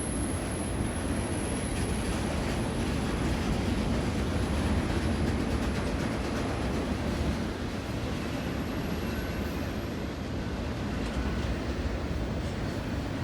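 Long BNSF double-stack container train rolling past, its cars making a steady low rumble and rail noise.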